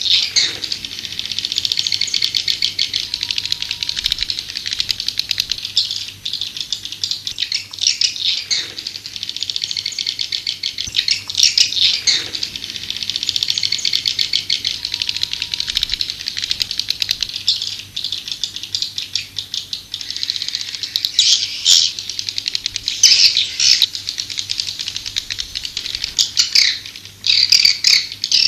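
Swiftlets calling: a dense, rapid, rattling twitter of many birds, with a few louder calls sweeping down in pitch. This is a swiftlet lure call of the kind played to draw swiftlets into a nesting house.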